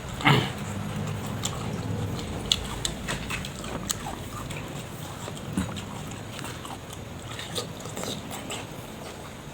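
Close-up eating sounds: a person chewing food, with irregular small wet clicks and smacks of the mouth, loudest just after the start.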